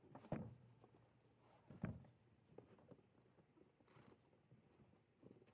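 Faint handling noises of objects being moved: two soft knocks, one about a third of a second in and one near two seconds, amid light clicks and rustling.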